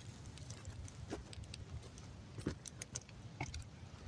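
Campfire of wet, ice-crusted wood burning, with faint scattered crackles and pops over a low steady rumble.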